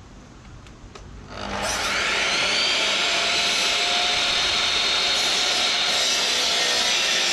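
Electric power tool switched on about a second and a half in, its motor whine rising quickly to a steady high pitch and running on loudly.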